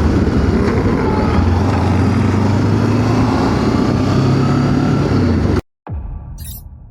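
Voge DS525X parallel-twin motorcycle engine running at a steady cruise with road noise while riding. It cuts off abruptly about five and a half seconds in, and a fainter sound fades out after it.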